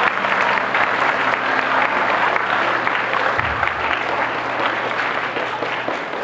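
Audience clapping, a dense steady patter that eases slightly near the end.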